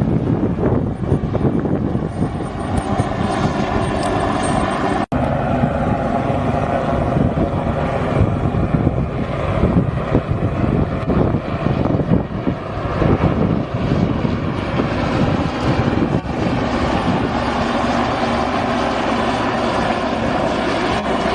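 Military helicopters flying over, a continuous loud rotor and turbine engine noise, with a momentary dropout about five seconds in.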